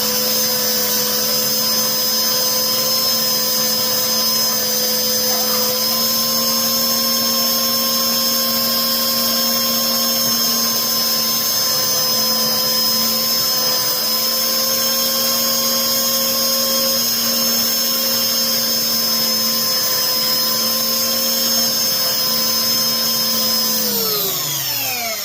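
Cheap Harbor Freight belt sander running steadily with a motor whine, sanding a wooden armrest to shape. Near the end it is switched off and winds down, its whine falling in pitch.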